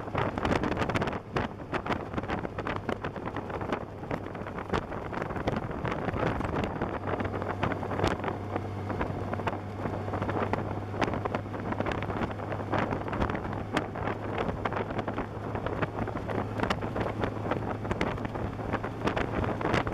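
Wind buffeting the microphone of a camera on a moving motorcycle, full of short crackles and pops, over a steady low engine drone.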